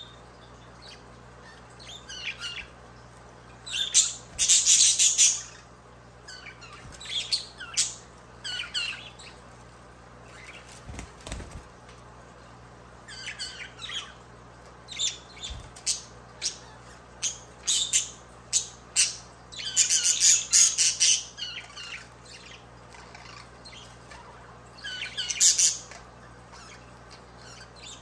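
Budgerigars chirping and squawking in short, irregular bouts, with several louder stretches of harsh squawking among scattered single chirps. A faint steady low hum runs underneath.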